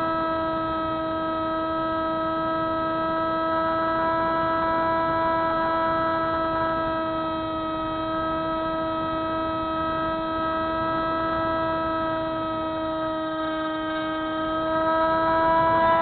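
Electric motor and propeller of a Spyhawk FPV model plane in flight: a steady whine, with rushing air underneath. Near the end it gets louder and its pitch rises a little, as the throttle goes up.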